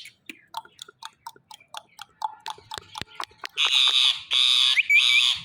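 Male ringneck parrot making a run of quick clicking chatter that gets faster, then about three seconds in breaking into loud, harsh, repeated screeches with a short rising whistle between them.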